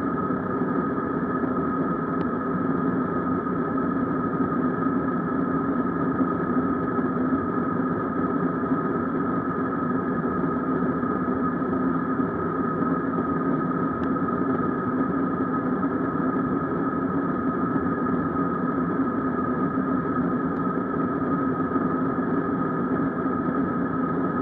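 Steady jet engine noise heard inside the cabin of an Airbus A321 with IAE V2500 turbofans: an even rush with a low hum and a higher tone holding steady throughout. Two faint ticks come through, one about two seconds in and one about halfway.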